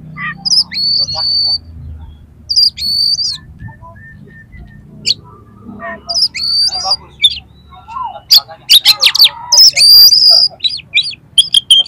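Oriental magpie-robin (kacer) singing: clear high whistles mixed with sharp clicks and rough chattering notes, the song growing fastest and densest about eight seconds in.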